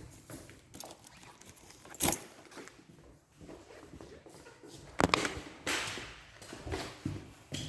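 Irregular knocks and bangs at uneven intervals: a sharp one about two seconds in, two more around five to six seconds in, and fainter taps between.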